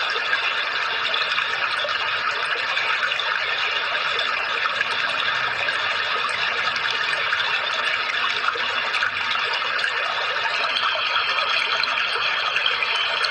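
Running water splashing steadily without a break, the kind of flowing-water sound played as therapy for songbirds.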